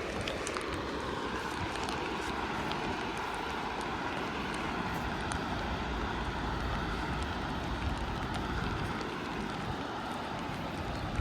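Large waterfall, a steady, unbroken rush of falling water.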